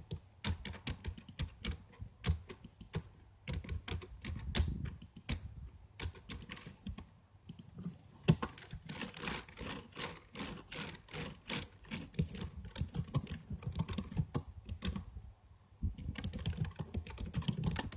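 Typing on a computer keyboard: quick runs of keystroke clicks, broken by a couple of short pauses.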